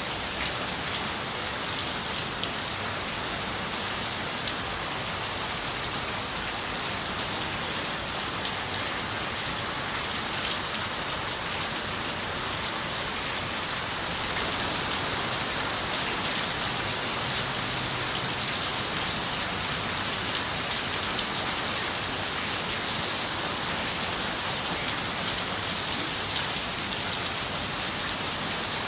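Steady rain on a window: an even hiss with faint scattered drop ticks, growing slightly louder about halfway through.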